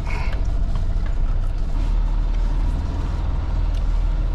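Semi truck's diesel engine running at low revs, a steady low rumble heard from inside the cab.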